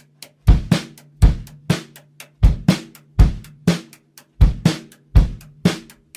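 Drum kit playing alone at the start of a song: kick and snare in a beat with light hi-hat ticks, the same one-bar pattern repeating about every two seconds, the drums ringing on a low tone under the hits.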